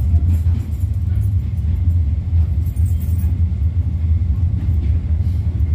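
Steady low rumble of a moving train, with a few faint rattles about three seconds in.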